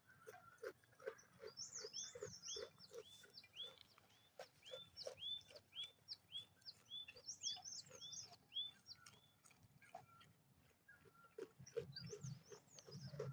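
Faint animal and bird calls: rapid runs of high, repeated chirps over a steady series of short, lower calls at about three a second.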